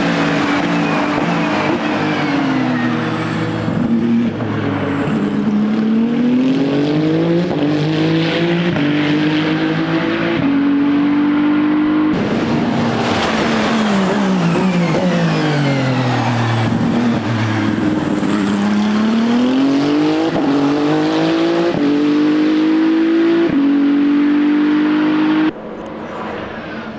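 Ferrari 499P hypercar's 3-litre twin-turbo 120° V6 hybrid running hard on track. Its engine note repeatedly falls as it slows, then climbs in steps through the upshifts. The sound drops sharply in loudness near the end.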